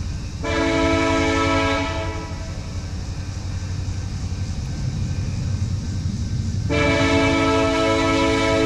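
Diesel locomotive's multi-note air horn sounding two long blasts of a chord: the first about half a second in, lasting about two seconds, the second starting a few seconds later and still sounding at the end. A steady low rumble runs underneath.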